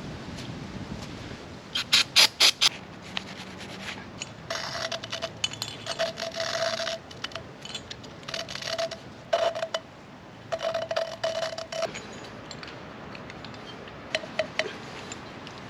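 Mower engine valve being lapped into its seat with grinding compound: a few sharp clicks, then repeated bursts of gritty scraping with a squeaky tone as the valve is turned back and forth.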